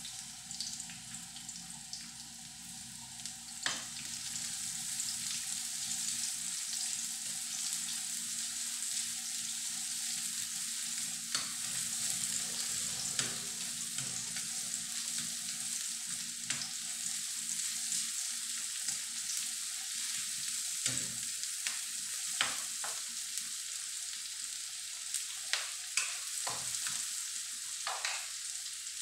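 Chopped garlic and sliced red onion sizzling in hot oil in a wok, stirred with a ladle that now and then knocks and scrapes against the pan. The sizzle grows louder about four seconds in.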